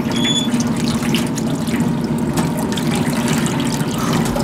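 Water running and splashing at a 1950s Maytag wringer washer, with a steady mechanical hum from the machine underneath. A short, high squeak sounds just after the start.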